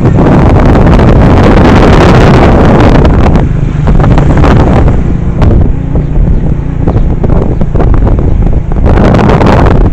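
Loud wind rumbling on the microphone over the running noise of a moving vehicle, heaviest at first, easing after about three seconds and gusting up again near the end.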